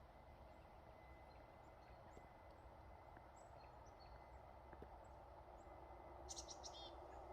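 Faint outdoor ambience: a low steady rumble of distant traffic, with scattered small bird chirps and a short run of high chirps about six seconds in.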